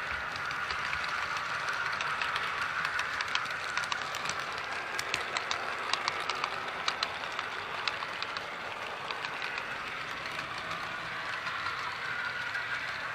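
HO-scale PRR F3 model diesel locomotive running. Its TCS WOW sound decoder plays diesel engine sound through the small onboard speaker, with a cluster of sharp clicks from the wheels and rail joints in the middle.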